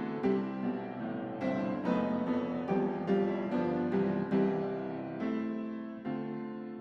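Background piano music, gentle notes struck about twice a second and left to ring.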